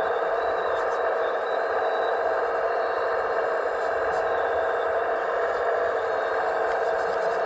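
Radio-controlled scale construction model running: a steady, unchanging motor and hydraulic pump whine, with a few faint clicks.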